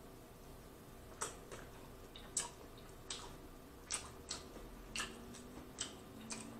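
Close-up chewing of lobster tail meat: a series of about ten sharp, wet mouth clicks and lip smacks at irregular spacing, roughly two a second.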